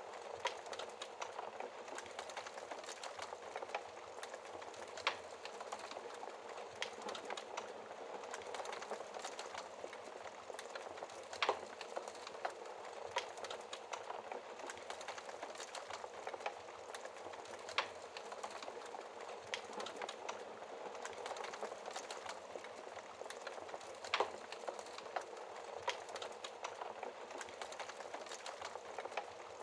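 Wood fire crackling in a fireplace: a steady hiss of burning with frequent small pops and a few louder snaps spread through.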